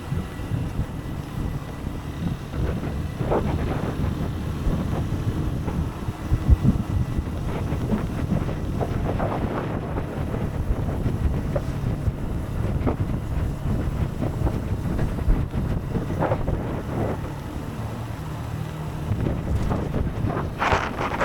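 Motorcycle engine running at a steady pace under heavy wind noise buffeting the microphone while riding.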